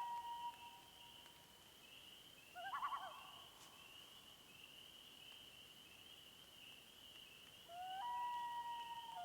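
Common loons calling: a long wail held on one pitch tails off in the first half second, a short wavering tremolo comes about three seconds in, and a second wail begins near the end. A steady high-pitched chorus pulses continuously beneath them.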